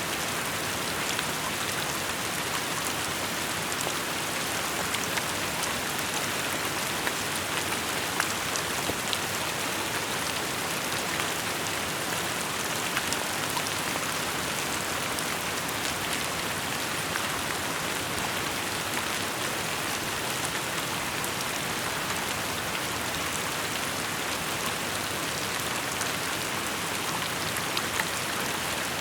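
Steady rain falling and pattering on surfaces, an even hiss with many small drop ticks scattered through it.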